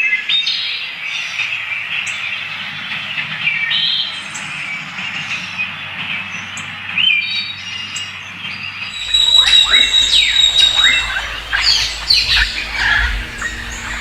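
Rainforest birds calling: scattered chirps and short whistles over a steady high hiss, then, about nine seconds in, a denser burst of harsh squawks and quick falling calls.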